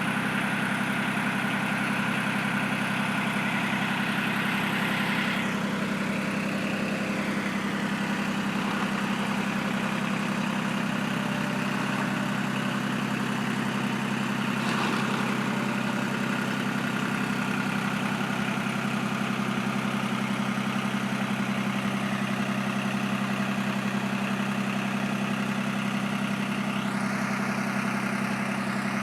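Old John Deere tractor engine running at a steady idle.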